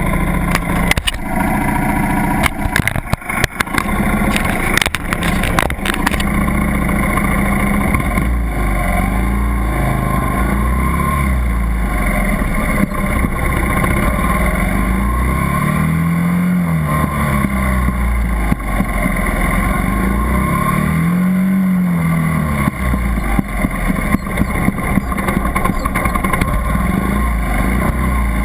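80cc dirt bike engine running under throttle, its pitch rising and falling as it revs up and eases off, with a run of sharp knocks in the first few seconds.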